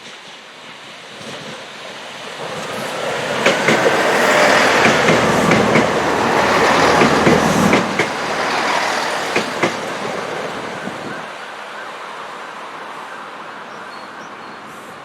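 A train passing close by. Its sound builds from about two seconds in, is loudest in the middle with sharp wheel clicks over the rail joints, and dies away after about eleven seconds.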